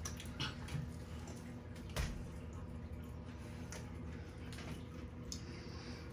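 Faint sounds of children chewing and eating pizza: scattered small clicks and mouth noises, with one louder knock about two seconds in.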